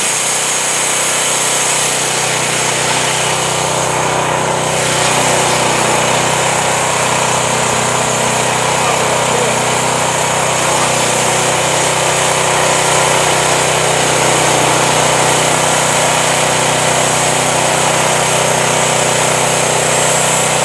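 Home-built Crosswood Model #28 band sawmill running steadily with its engine and band blade, a loud, even mechanical drone with a hissing top, stepping up slightly about five seconds in.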